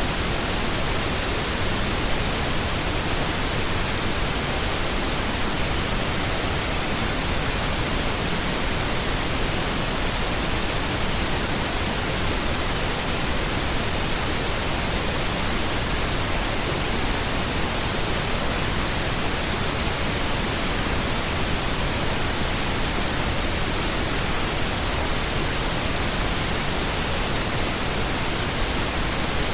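Steady pink noise: an even, unchanging hiss spread across all pitches, a continuous rushing sound like distant ocean surf.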